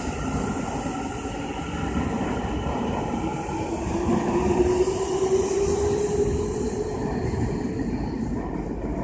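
Tokyu electric train, set 5190F, running out of service along the station platform: wheels rumbling on the rails with a steady high hiss. From about four seconds in, a motor whine rises in pitch as the train picks up speed.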